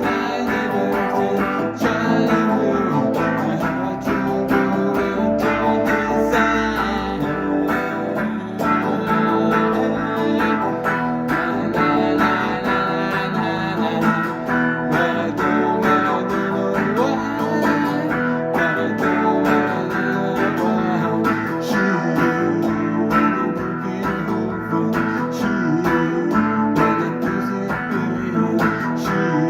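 Guitar music: plucked and strummed guitar playing steadily.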